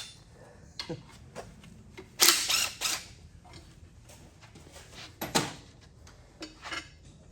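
Metal engine parts and hand tools being handled during an LS1 engine teardown: scattered clicks and clinks, a louder rattling clatter about two seconds in, and a sharp knock a little after five seconds.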